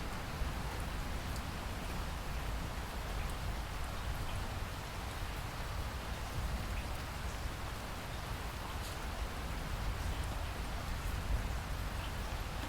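Steady rain falling: a continuous even hiss with scattered individual drop ticks, over a low rumble.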